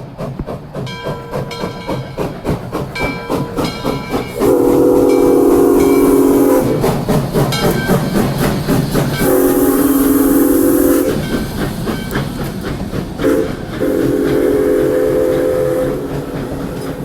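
A train whistle blows a chord of several pitches in four blasts: long, long, short, long, the grade-crossing signal. Before the whistle, a locomotive bell rings in a steady rhythm for the first few seconds.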